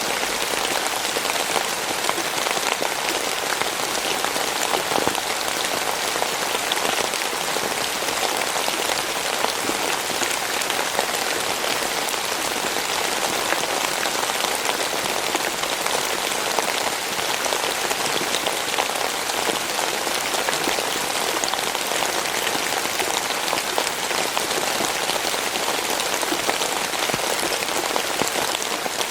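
Steady rain falling on a surface, a dense even patter of drops that does not let up.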